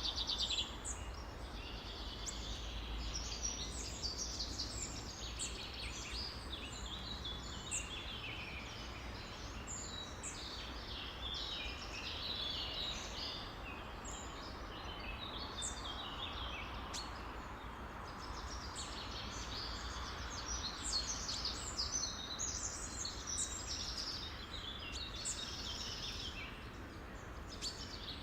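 A chorus of many songbirds singing and calling at once, a dense, unbroken overlap of short chirps and whistles, over a faint low rumble.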